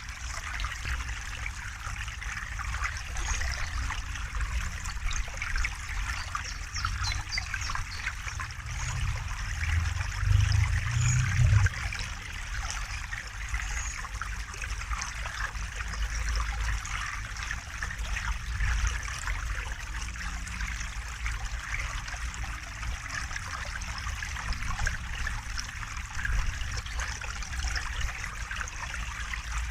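River water flowing and trickling steadily, with a low rumble underneath that swells for a couple of seconds about ten seconds in.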